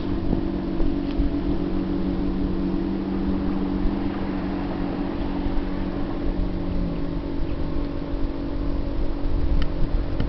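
Steady low drone of a passing lake freighter's engines, a hum of several held low tones, one of which drops out about seven seconds in, over a low rumble.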